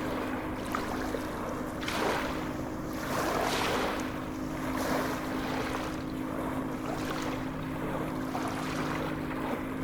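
Sea waves washing in and drawing back, swelling and easing every second or two, over a steady low hum.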